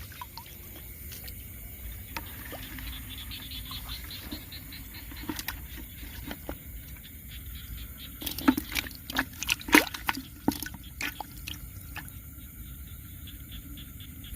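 Shallow field water splashing and trickling, mostly small sounds, with a cluster of sharper splashes about eight to eleven seconds in.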